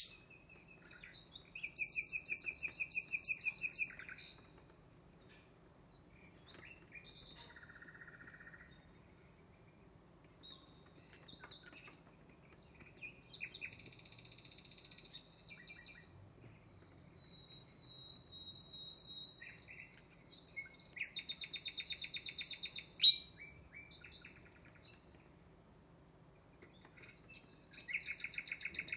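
Recorded nightingale song played back from a computer: phrases of fast trills and clear whistles with pauses between them, and one sharp loud note about 23 seconds in.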